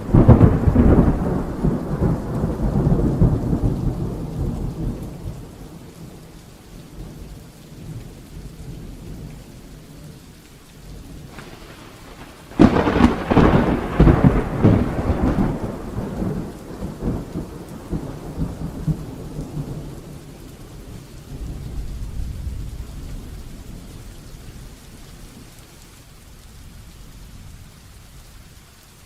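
Heavy steady rain with thunder: a loud clap right at the start that rumbles away over several seconds, a second loud clap about twelve seconds in that rolls on for several seconds more, and a fainter rumble later.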